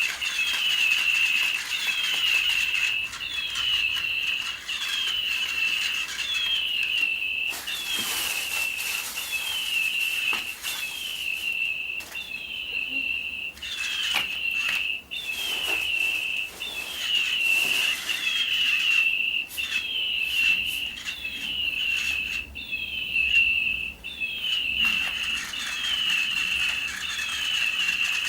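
Electronic toy bird chirping over and over, a short high falling chirp about once a second at an even pace, with a rustling flutter from its flapping wings.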